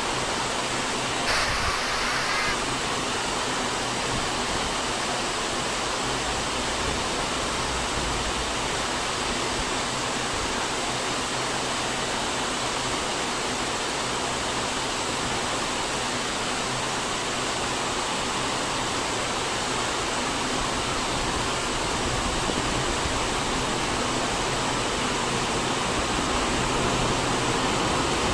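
Heavy rain pouring down steadily as a dense, even hiss, with a brief louder hiss about a second in.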